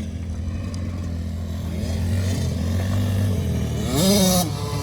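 Small youth off-road engine running steadily, then revving up sharply about four seconds in as the throttle opens.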